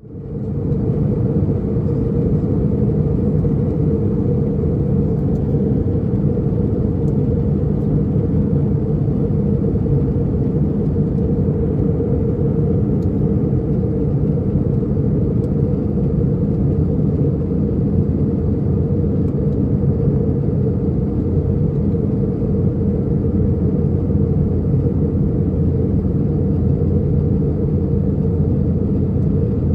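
Steady in-flight cabin rumble of an Airbus A319: engine and airflow noise heard from inside the passenger cabin, fading in at the very start.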